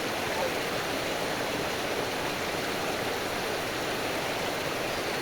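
Steady rush of stream water flowing.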